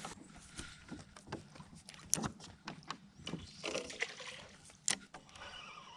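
Scattered faint clicks and knocks of fishing gear being handled in a small boat, two of them sharper, about two and five seconds in, over a faint steady low hum.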